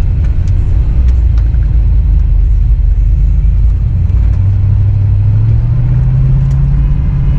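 Pickup truck engine running under load with a heavy low rumble, its pitch climbing steadily from about halfway through as it revs up.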